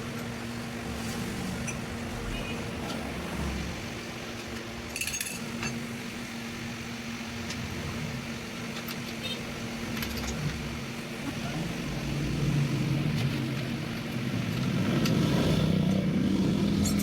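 Workshop sound: a steady mechanical hum runs throughout, with a few sharp clicks around the middle. It grows louder and busier in the last few seconds.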